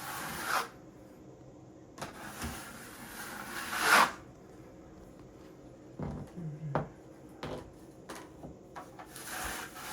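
Plastering trowel scraping wet plaster across a wall in three long strokes, the middle one about two seconds long and growing loudest at its end, with a few light knocks in between.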